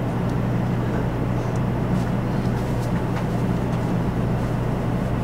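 Cabin running noise of a JR West Series 500 Shinkansen in motion: a steady low rumble with a hum underneath, even throughout.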